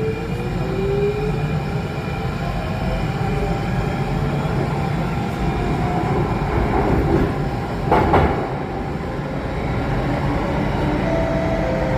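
Cabin sound of an Alstom Metropolis C830 metro train running: a steady rumble of wheels on rail, with a motor whine that rises in pitch over the first few seconds as the train picks up speed. A single sharp knock comes about eight seconds in.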